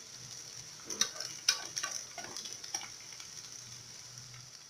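Grated potato pancake frying in shallow oil in a non-stick pan, with a steady sizzle. A metal spoon presses and scrapes against the pan several times in the first three seconds. The sizzle fades slightly near the end.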